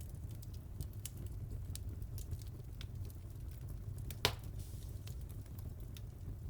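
Wood fire crackling: a low steady rumble under scattered small pops, with one louder pop a little past four seconds in.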